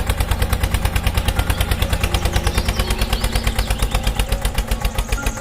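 Small engine of a miniature tractor running with a rapid, even chugging beat, about a dozen pulses a second.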